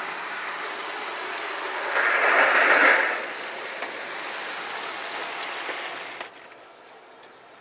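Water jets of an automatic car wash spraying onto the car, heard from inside the cabin as an even hiss. The spray surges louder about two seconds in for about a second, and fades away about six seconds in.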